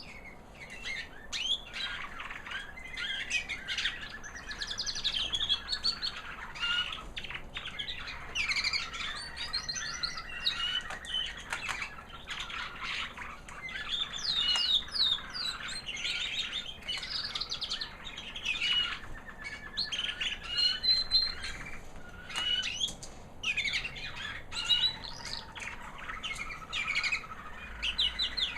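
American Singer canary hen singing a high, sweet song: a continuous run of quick chirps, trills and pitch glides, broken by short pauses.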